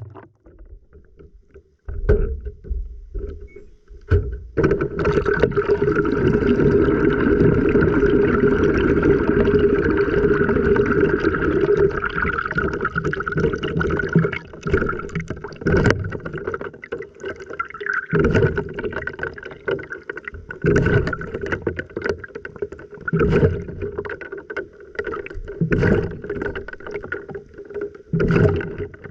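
Water sloshing and churning inside an LG washing machine drum during a wash, heard from within the drum. It is quiet for the first few seconds, then a steady rush of water sets in and later breaks up into irregular sloshes and surges.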